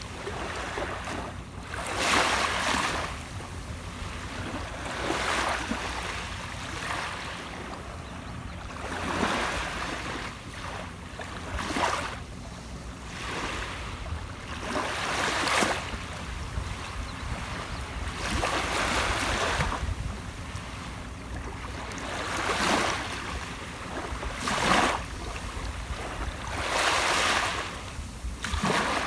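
Ocean waves breaking and washing ashore, surging about every three seconds over a steady low rumble.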